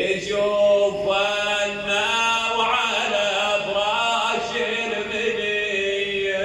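A male radood chanting a Shia mourning lament in long, drawn-out lines that waver in pitch, with no words picked out.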